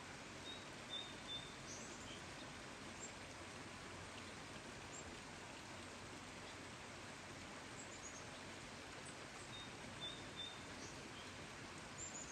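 Faint, steady outdoor hiss of rain with a small bird's short, high chirps over it. The same brief cluster of chirps comes twice, about nine seconds apart, and one more high note comes near the end.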